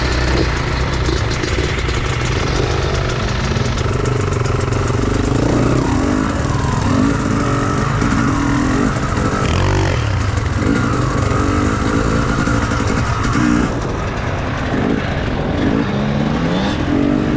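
Enduro motorcycle engine running, its pitch rising and falling as the throttle is opened and closed.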